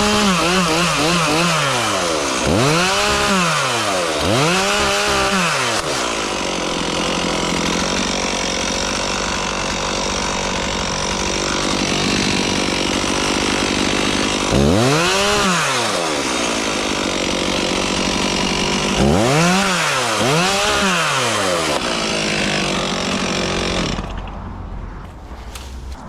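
Chainsaw cutting through a large bush. The engine revs up and down several times between stretches of steady running, then cuts off near the end.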